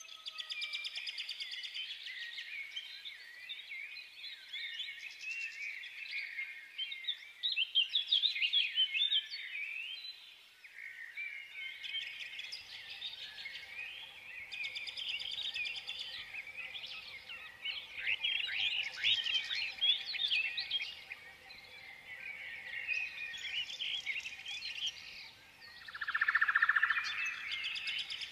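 Birds chirping and singing, with many quick, overlapping calls.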